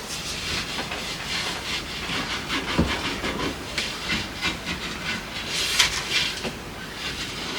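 Steady hissing noise with many light clicks and clatters scattered through it, the loudest clack about six seconds in.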